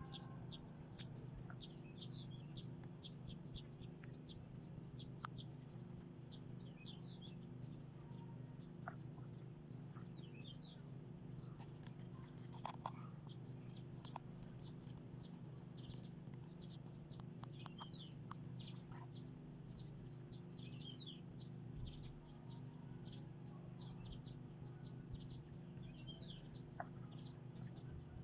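Small birds chirping continuously in many short, quick high calls, over a faint steady low hum.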